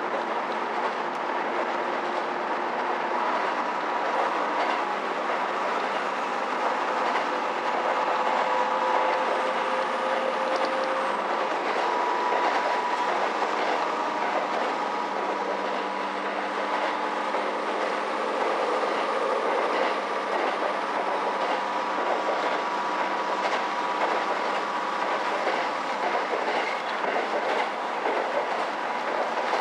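A diesel railcar running along the line, heard from inside the passenger car: a steady rumble of the wheels on the rails and the engine, with a faint steady whine and light irregular clicks.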